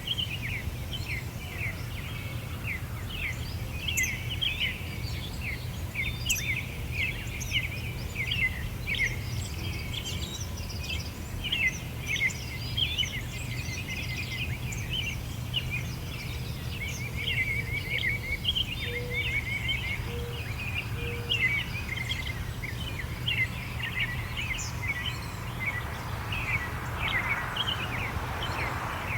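Many small songbirds chirping and twittering in quick, short notes, over a steady low background rumble; a soft hiss swells briefly near the end.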